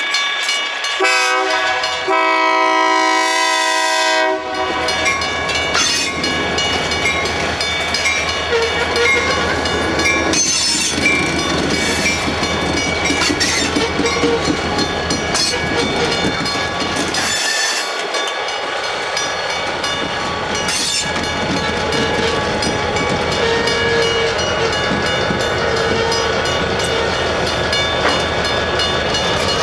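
Locomotive horn blowing for a grade crossing, its last long blast cutting off about four seconds in. Then two EMD diesel locomotives, a GP40-2 and a GP38-2, pass close by with engines running, and covered hopper cars follow, wheels clicking over the rail joints. A crossing bell rings.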